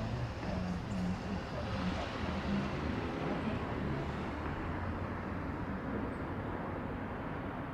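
Steady low rumble of a vehicle, with no distinct knocks or clicks.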